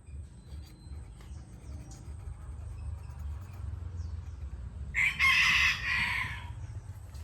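A rooster crows once, starting about five seconds in and lasting about a second and a half, over a steady low hum.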